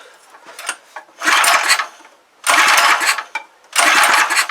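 Three pulls of the recoil starter on a small petrol pressure-washer engine, each a short whirring crank lasting under a second, with the engine not catching. The carburettor bowl has been run dry, so the engine is cranking without fuel.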